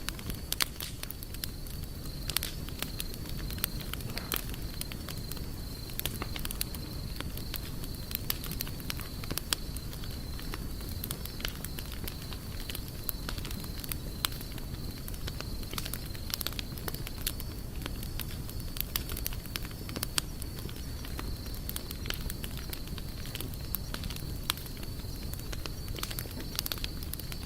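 Campfire crackling: many sharp, irregular pops and snaps over a low steady rumble of burning, with a faint steady high tone behind it.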